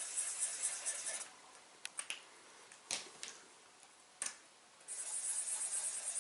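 Pen drawing patterns on a paper plate: two spells of quick scratchy strokes, the first in the opening second and the second starting about five seconds in, with a few sharp clicks and taps in between.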